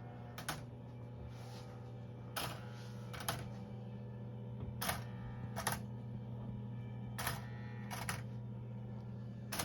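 Steady low electrical hum from a powered model railroad layout, with about eight light, irregular clicks and taps over it.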